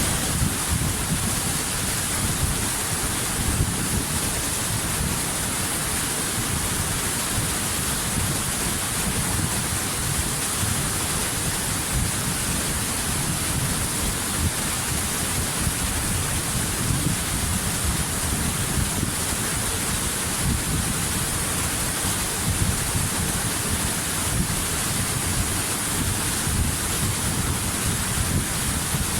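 Waterfall: a steady, dense rush of falling water with a deep rumble underneath, unchanging throughout.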